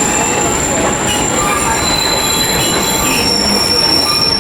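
Narrow-gauge train running on 30-inch track, its steel wheels squealing on the rails over a steady rumble. The squeal is made of several thin, high tones, and its pitch shifts about three seconds in.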